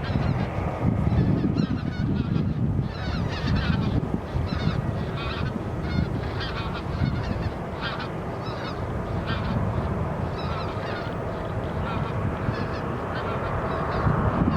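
Many short honking bird calls in quick succession, like a flock of geese, over a steady low rumble.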